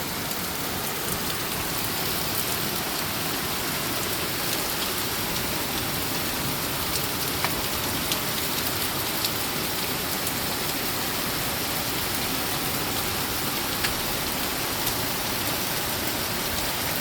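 Heavy rain pouring down steadily, with scattered sharper drops striking close by.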